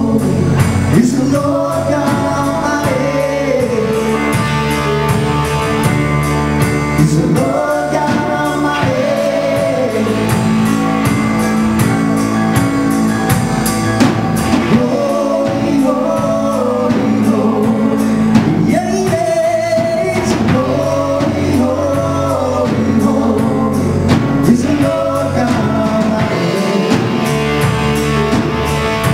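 A song: a lead singer's voice over a band with drums and guitar.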